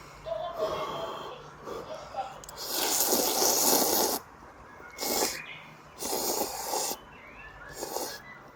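A person slurping ramen noodles: four noisy slurps, the first and longest about a second and a half, then three shorter ones.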